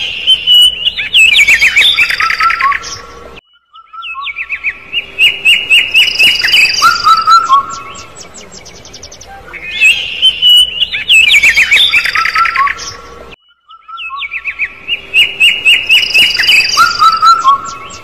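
Birds chirping in rapid runs of high, quick chirps mixed with lower falling notes. The same stretch of calls repeats about every ten seconds as a loop, cutting out abruptly for a moment a few seconds in and again about two-thirds of the way through.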